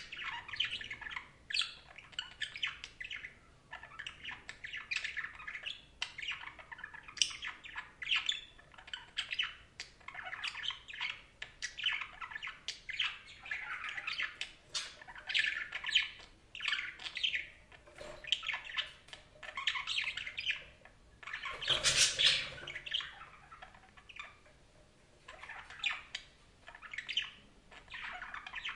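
Budgerigars chattering and warbling: a continuous stream of quick chirps and squawks. About three-quarters of the way through comes one louder, harsher burst.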